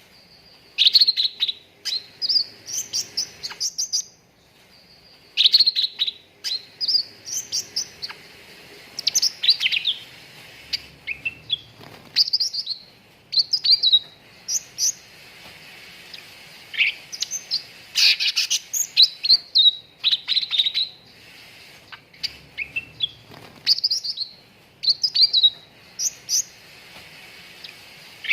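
Cucak ranting singing in bursts of sharp, rapid chirps and short sweeping phrases, several a second, with brief pauses between bursts.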